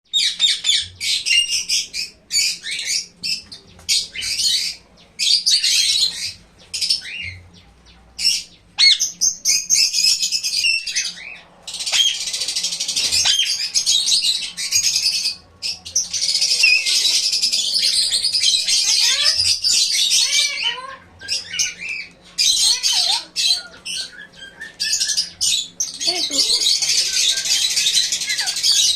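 Parrots chirping and chattering in dense, high-pitched stretches, broken by a few short pauses.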